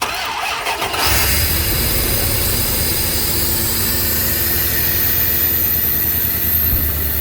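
Second-generation Dodge Ram's engine cranked by the starter for about a second, then catching and running steadily at a slightly high idle. The new idle air control valve has just been fitted, and the computer is still learning it.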